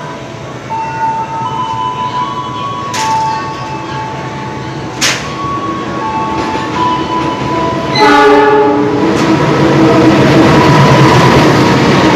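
Empty cement freight train approaching and sounding its locomotive horn about eight seconds in, then running past close by with a loud, steady rumble of wheels and wagons.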